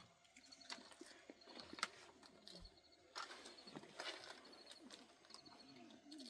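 Faint outdoor quiet with a small bird giving short runs of high chirps, repeated every second or so, and scattered soft clicks and taps.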